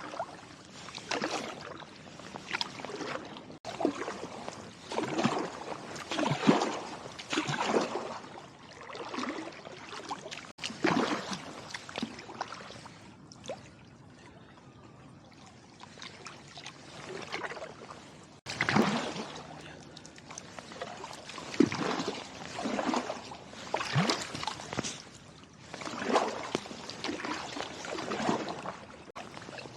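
Kayak paddle strokes splashing and dripping in the water, roughly one stroke a second, with a short pause about halfway through.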